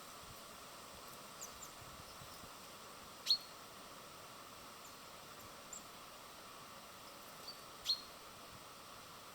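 Small birds calling: two sharp, short calls sweeping downward, about four and a half seconds apart, with a few fainter chirps between them, over a steady background hiss.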